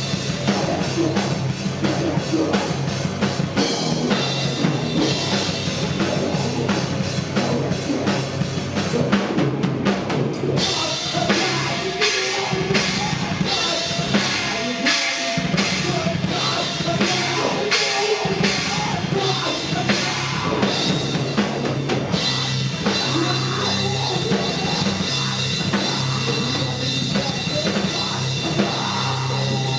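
Rock band playing live at full volume, the drum kit prominent with steady bass drum and snare hits under the rest of the band.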